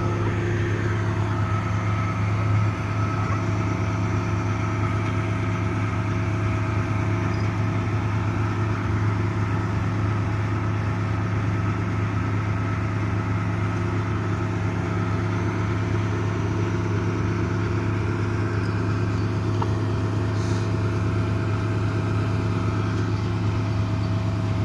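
Delivery truck engine idling steadily, a constant low hum with a faint steady whine above it.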